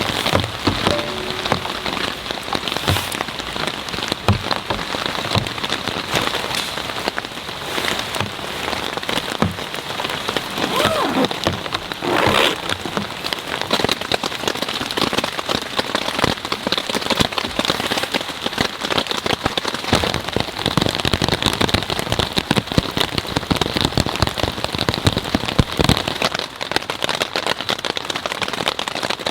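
Steady rain, with many separate drops striking close by, and one brief louder sound about twelve seconds in.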